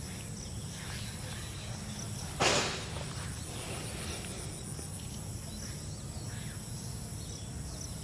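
Outdoor ambience with insects chirping in a thin, high, steady band and a low steady rumble. About two and a half seconds in comes one short, loud rush of noise.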